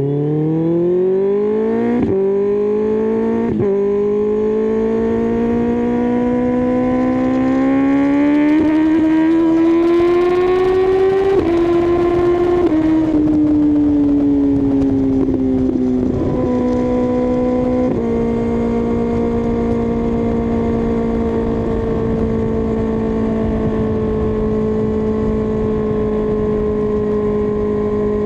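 2024 Kawasaki ZX-6R's 636 cc inline-four engine pulling hard with two quick upshifts in the first few seconds, climbing in revs, then easing off and settling into a steady cruise for the last ten seconds, with wind rush behind it.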